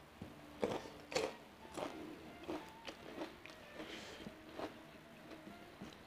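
Close-miked chewing of a mouthful of fried chicken with its skin, wet mouth smacks coming roughly twice a second.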